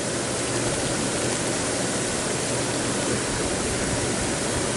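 Hot tub jets running: a steady rushing of churning water with a faint low hum underneath.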